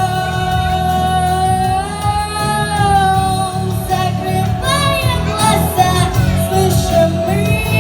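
A female voice singing a pop song over an instrumental backing track. She holds one long note with vibrato for about four seconds, then sings a few shorter phrases.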